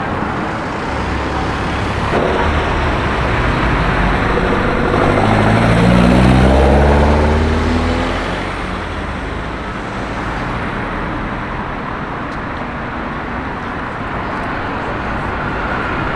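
City street traffic with one car driving past; its engine note falls in pitch as it goes by, loudest about six seconds in.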